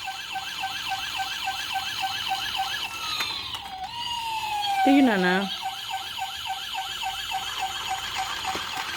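Battery-operated toy police car's electronic siren, a rapid repeating warble of about four pulses a second, with a short falling tone about four seconds in.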